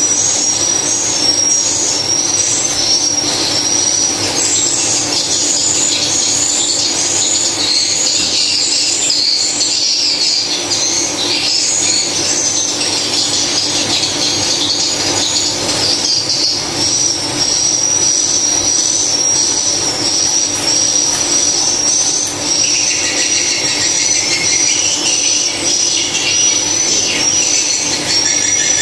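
Swiftlet calls: dense, unbroken high-pitched chirping and twittering, with a steady low hum underneath.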